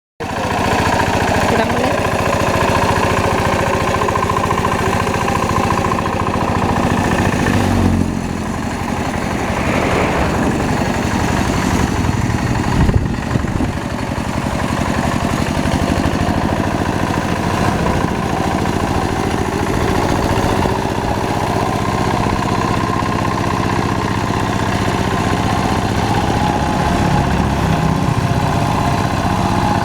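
Hand tractor engine running steadily with a rapid low pulsing beat; the level drops slightly about eight seconds in, and a brief knock sounds near the middle.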